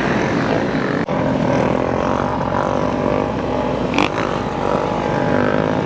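Several motorcycle engines running and revving together. There is a sharp click about a second in and a short, sharp, higher sound about four seconds in.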